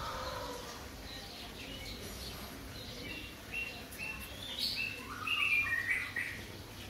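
A small bird chirping: a run of short, clear notes that starts about halfway in and is loudest near the end, with the last notes stepping down in pitch. A faint low rumble of background noise sits underneath.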